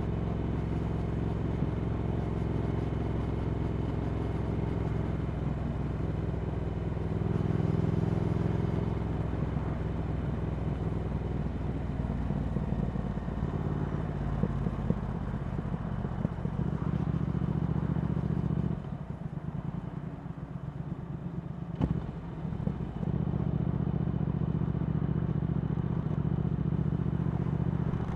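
Triumph Speed Twin 1200's 1200 cc parallel-twin engine running through a Vance & Hines slip-on exhaust while riding at an easy pace. It swells louder briefly about a quarter of the way in, and falls back for a few seconds past the middle, where a single sharp click is heard. It then settles into a steady pull again.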